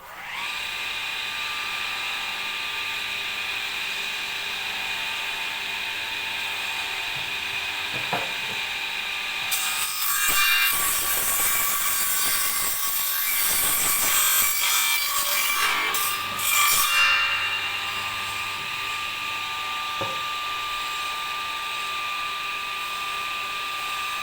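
Electric wood-cutting saw mounted under a homemade table saw starts up and runs with a steady high whine. From about ten seconds in, the blade cuts through wood for around seven seconds with a louder rasping noise, then the saw runs free again.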